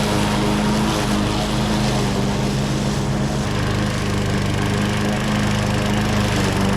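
John Deere JS36 walk-behind lawn mower engine running steadily at raised RPM while mowing wet grass, holding its speed without bogging down.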